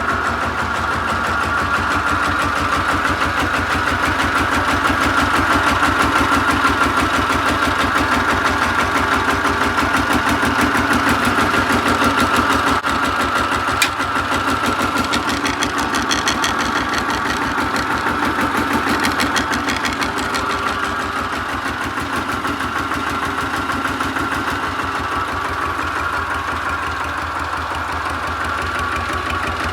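Goldoni 233 4×4 mini tractor engine running steadily with an even, rapid firing beat, growing slightly louder in the first half; a single sharp click about halfway through.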